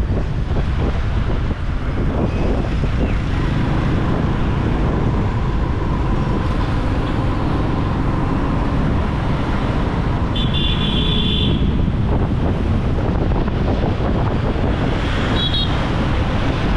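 Motorbike riding through city traffic, with steady road and engine rumble and wind on the microphone. A horn sounds for about a second around ten seconds in, and briefly again near the end.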